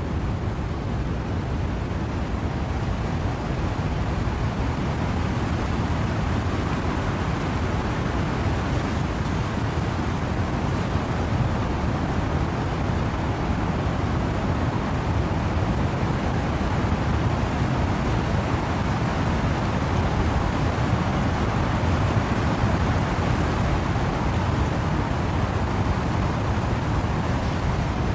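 Wind and rain in trees: a steady rushing noise, heaviest in the low end, swelling slightly partway through.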